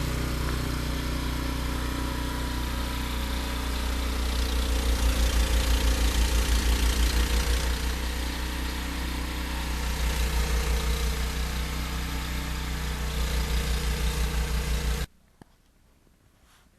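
Gas snowblower engine running steadily, getting louder in stretches, then stopping abruptly about three-quarters of the way through.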